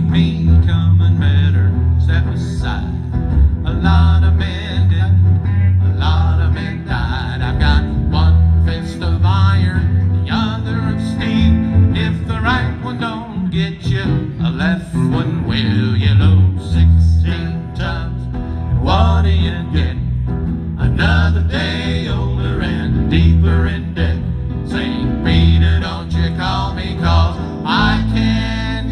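Instrumental break of a country-style band: a plucked-guitar lead with bent notes over a walking double bass line.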